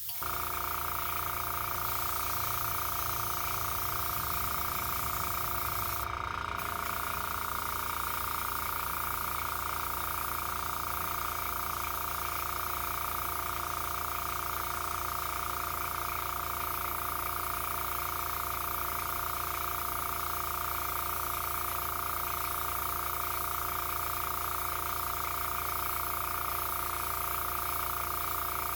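Airbrush compressor starting and running steadily with an even motor hum and hiss while the airbrush sprays paint.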